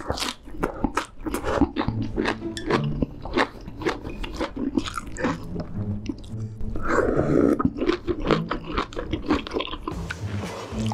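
Close-miked eating: crisp crunching and wet chewing of a big lettuce-wrapped mouthful of meat, a rapid, irregular run of sharp crackles and smacks.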